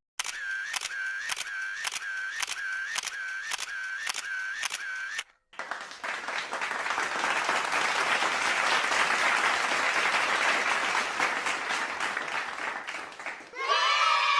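Sound effects: a run of evenly spaced mechanical clicks, about two a second, each with a short dipping tone, lasting about five seconds. After a brief gap, audience applause swells and then fades, and a new effect with several pitched tones cuts in near the end.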